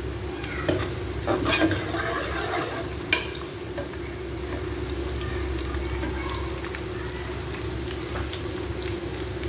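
Sliced onions with whole garlic and ginger sizzling in oil in a metal pot while a steel ladle stirs them. The ladle clinks and scrapes against the pot a few times in the first three seconds, loudest about a second and a half in.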